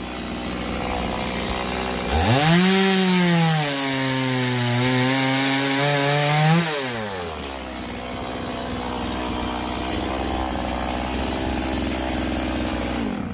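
Stihl MS 180 two-stroke chainsaw idling, then revving up about two seconds in and cutting eucalyptus wood for about four seconds, its pitch sagging under load. It drops back to idle and stops abruptly at the end.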